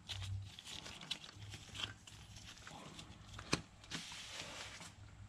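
Scattered light metal clicks and taps of a homemade C-clamp valve spring compressor being positioned on an aluminium cylinder head, with one sharper click about three and a half seconds in, over a faint low hum.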